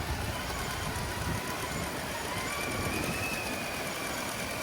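RC crawler's electric motor and drivetrain whining as it crawls, the pitch rising a little about two seconds in, over a low uneven rumble.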